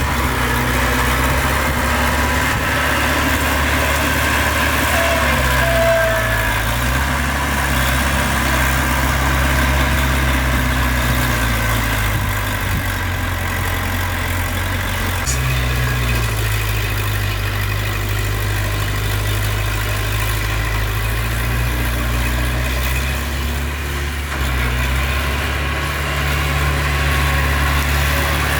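Heavy diesel engine of earthmoving machinery running near idle, its speed stepping down and up a few times.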